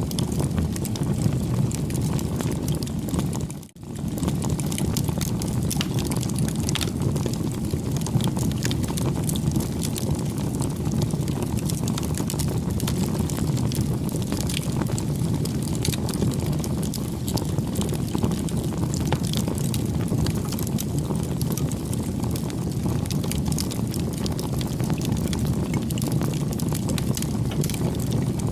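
Campfire burning: a steady low rumble of flames with frequent small, irregular crackles and pops. The sound briefly drops out almost to nothing a little under four seconds in.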